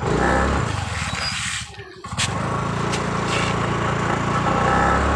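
Motorbike engine running while riding, with wind noise on the microphone; the sound drops briefly about two seconds in, then the engine runs on steadily.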